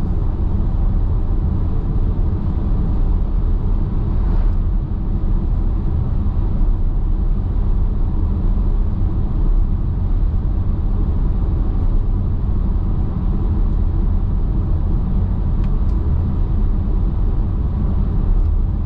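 Steady road noise inside a moving car at highway speed: a constant low drone of tyres and engine.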